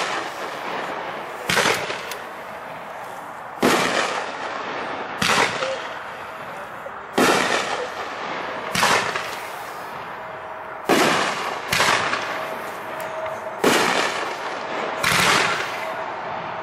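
Flashing Fireworks FF4051 Smokin' Joe aerial firework firing shot after shot, about nine sharp booms one to two seconds apart. Each bursts in the air and trails off.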